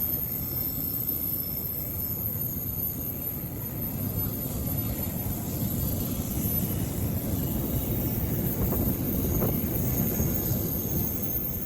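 A train running with a steady low rumble that grows a little louder in the second half.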